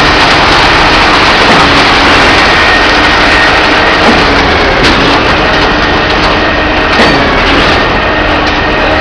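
Truck-mounted concrete pump running loudly and steadily during a concrete pour, with a few sharp knocks about five and seven seconds in.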